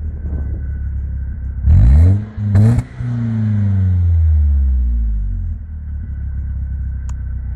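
BMW 316i Compact's M43B16 four-cylinder engine through a Remus aftermarket exhaust, idling, then blipped hard twice in quick succession about two seconds in. The revs then fall slowly back to a steady idle.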